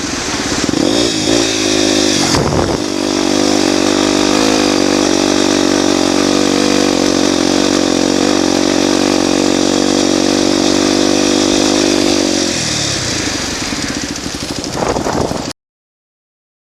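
Honda Tornado 250 single-cylinder four-stroke motorcycle engine with an aftermarket exhaust, pulling hard at high steady revs under load up a sand dune, with a knocking that the owner puts down to the connecting rod. The revs shift during the first couple of seconds, the engine drops off about twelve seconds in, and the sound cuts off suddenly near the end.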